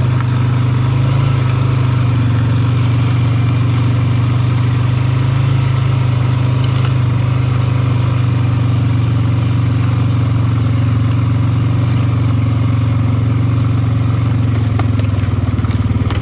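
ATV engine running at a steady speed while riding, its low note holding even with no revving.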